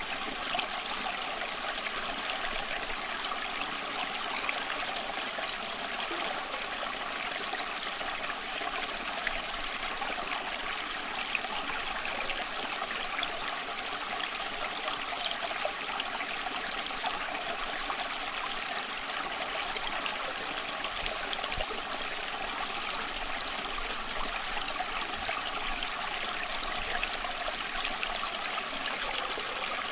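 Shallow stream flowing and trickling steadily, a continuous water rush with small splashes and gurgles.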